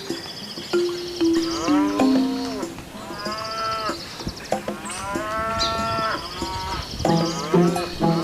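Domestic cow mooing: two long, drawn-out moos, one about two seconds in and one about five seconds in.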